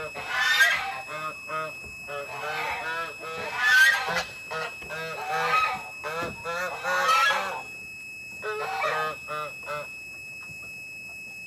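Backyard poultry calling in bouts of short, harsh calls repeated in quick series, the loudest about four seconds in, with a faint steady high tone underneath.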